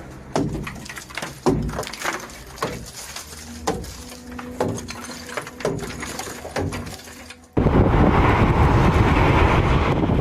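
Hard ice being broken off a ship's frozen lines with repeated blows, sharp knocks about once a second. About seven and a half seconds in, these give way abruptly to loud, steady wind noise with the sea.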